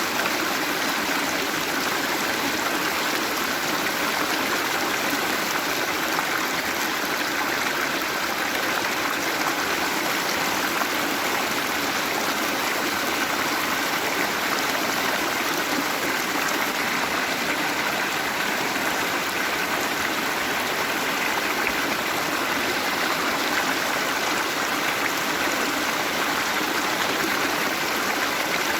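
Waterfall: water falling and rushing in a steady, even roar of splashing.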